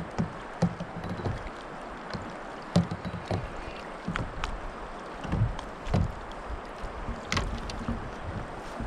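Water moving around a kayak on a river, a steady wash with scattered knocks and clicks on the boat.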